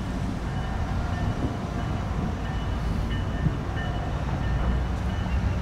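Steady low rumble of an approaching train at a grade crossing, with a faint, broken high ringing over it, likely the crossing bell.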